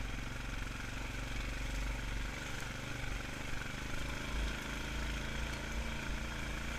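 ATV engine running steadily, its note unchanging.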